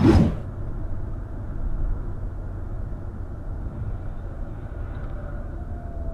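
A sudden loud thump right at the start, then the steady low rumble of a car's engine and tyres on the road.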